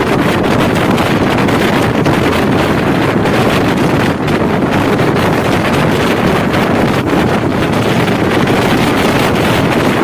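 Wind rushing over the microphone held out of a moving passenger train's open door, over the steady rumble of the train running at speed on the rails.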